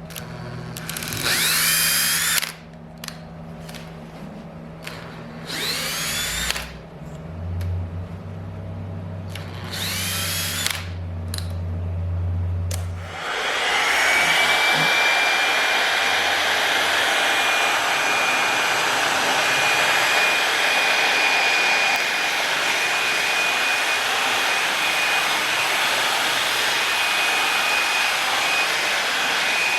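Electric power tool motor, run in three short bursts that each spin up with a rising whine, then switched on about halfway through and left running at a steady high pitch.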